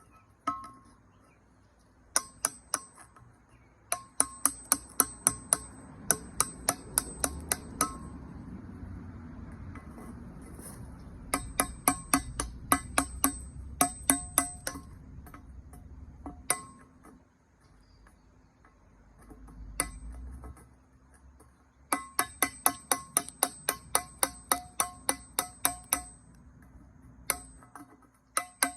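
A tool chipping glaze off a ceramic kiln shelf: quick runs of sharp, ringing taps, about five a second, with short pauses between runs. Each strike makes the shelf ring with a bright chime-like tone.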